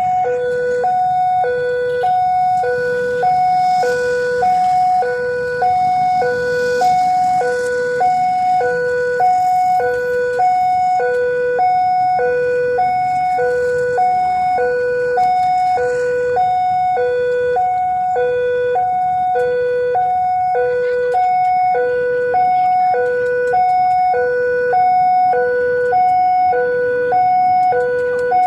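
Railway level-crossing warning alarm: an electronic two-tone signal alternating steadily between a low and a high note, about one cycle a second, over road traffic noise. It signals that a train is approaching or passing the crossing.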